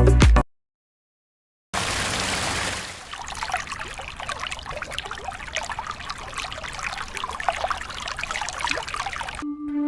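Water trickling and splashing, with a denser gush for about a second before it settles into a steady crackly trickle.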